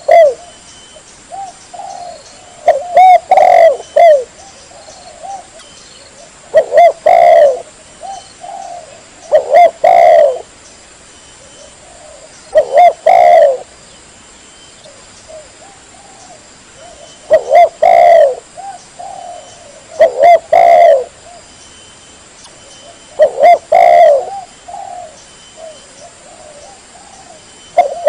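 Spotted dove cooing loudly and clearly, a phrase of several coos repeated about every three seconds, seven times in all.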